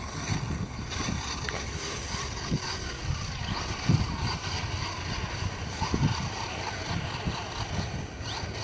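Arrma Outcast brushless electric RC stunt truck running on ice: a steady hiss with irregular low thumps.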